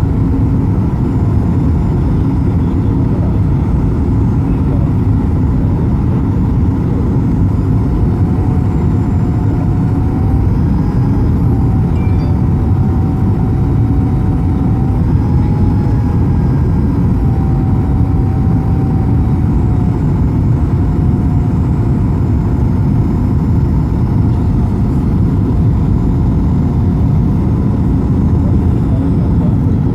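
Steady cabin noise of a jet airliner in flight: its engines and the rush of air on the fuselage make an even rumble and hiss, with a faint wavering whine in the middle.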